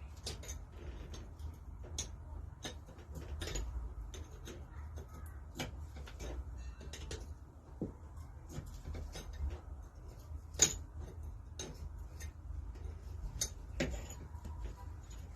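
Irregular metal clicks and clinks of hand tools and parts being handled while a Lister D engine is dismantled, with one sharper knock about two-thirds of the way through.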